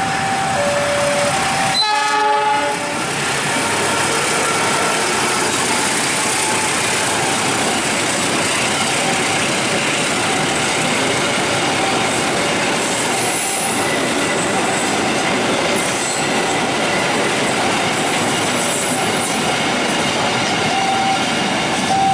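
A train running through a railway level crossing, its wheels clattering steadily over the rails. The crossing's warning alarm alternates between two notes near the start and again near the end. A short horn sounds about two seconds in.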